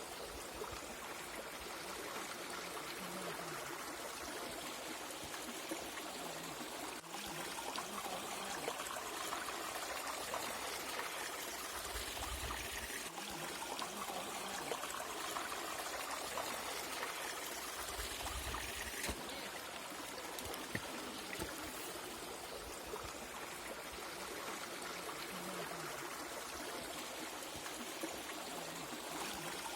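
Flowing water rushing steadily, as from a hill stream or waterfall. Two short low rumbles come in about the middle.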